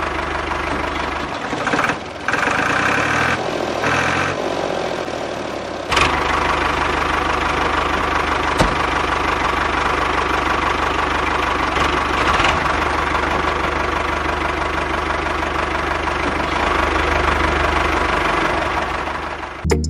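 A small motor or engine running steadily with a fast rattle, getting louder and fuller about six seconds in.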